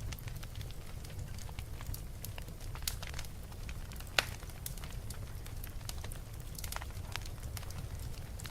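Fire crackling, with irregular sharp pops and one loud pop about four seconds in, over a steady low rumble.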